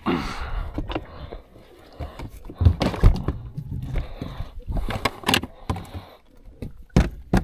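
Scattered knocks and thumps from people moving around in a fishing boat, the loudest a pair about three seconds in.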